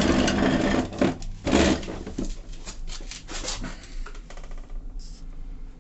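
Waterland pellet stove burning as it goes into its working mode: a couple of loud rushing bursts, then a run of light crackles and ticks from the burning pellets, over a low steady hum from the stove's fan.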